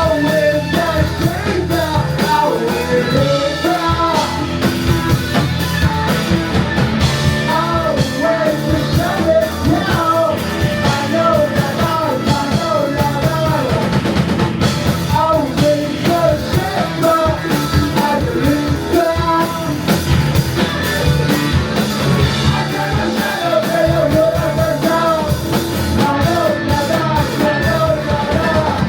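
Live rock band playing at full volume: drum kit, bass guitar, electric guitar and electric violin, with a wavering lead melody over a steady low bass line.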